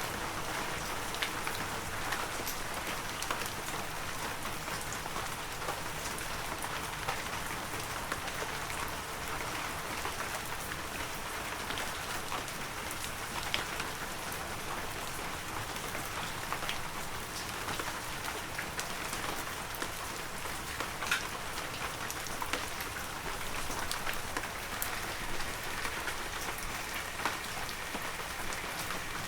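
Heavy rain falling steadily, a dense even hiss with many individual drops pattering sharply on near surfaces.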